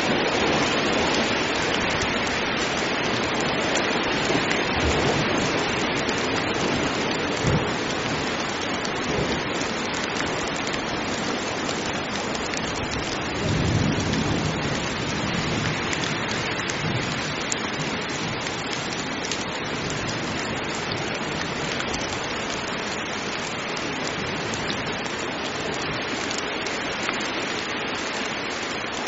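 Heavy rain falling in a steady, dense hiss, with a low rumble of thunder rolling in about halfway through.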